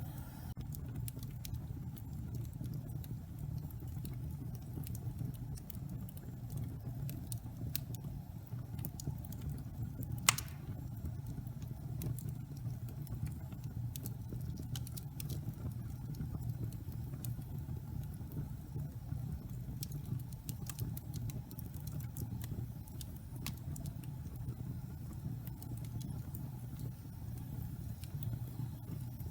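Wood fire in a fireplace crackling, with many small irregular snaps over a steady low rumble of the burning logs. One louder pop about ten seconds in.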